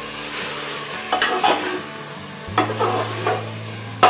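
Mutton pieces frying in mustard oil in an aluminium pressure cooker, sizzling steadily while a metal spoon stirs and scrapes them against the pot in a few strokes. A sharp knock near the end is the loudest sound.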